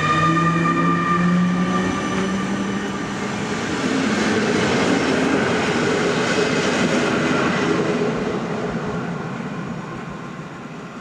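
Newag Griffin EU160 electric locomotive pulling away with its train: a motor whine rises slightly in pitch over the first few seconds, then the rumble of the train rolling past, fading near the end.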